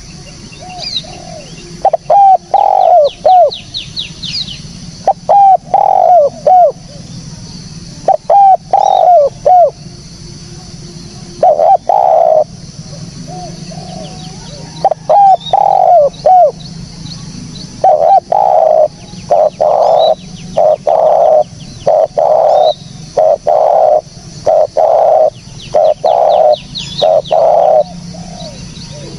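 Spotted dove (tekukur) cooing over and over in short phrases of two to four notes, then a longer run of about nine evenly spaced coos near the end. Thin high chirps of small birds come in briefly near the start and the end.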